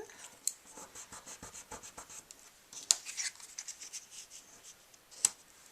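Glue pen tip scratching over a small paper cut-out in quick, short strokes, followed by a few sharp clicks; the pen is nearly out of glue.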